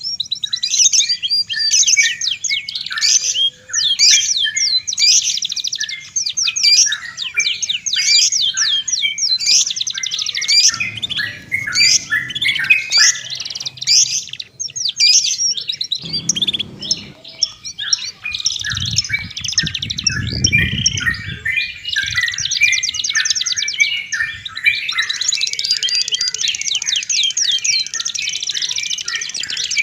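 Dense chorus of songbirds: many rapid chirps and trills overlapping without a break, as in a 'terapi' track played to stir caged birds into song. A low rumble comes and goes underneath a few times.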